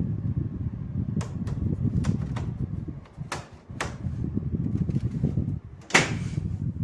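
Lloyd 1.5-ton inverter split air conditioner running, heard as an uneven low rumble of moving air on the microphone. Scattered sharp clicks come through it, with one loud click about six seconds in.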